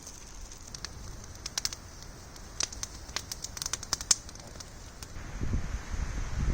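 Campfire crackling: scattered sharp pops over a steady hiss, thickest in the middle. Low wind noise buffets the microphone from near the end.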